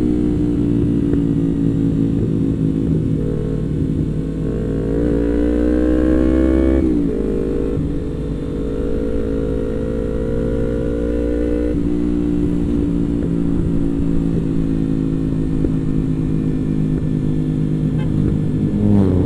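Yamaha MT-25's parallel-twin engine running under way. Its pitch rises as it pulls through a gear, then drops sharply at an upshift about seven seconds in, and it settles to a steady cruise with a smaller drop a few seconds later.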